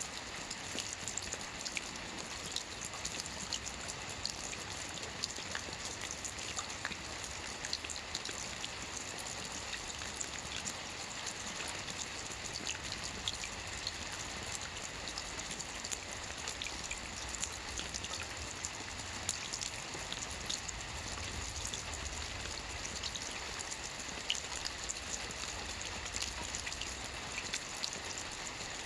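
Steady rain falling on a lake: an even hiss thick with small, sharp ticks of single drops.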